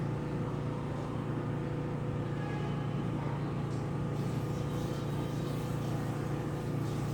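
Steady low background hum with no speech, holding level throughout.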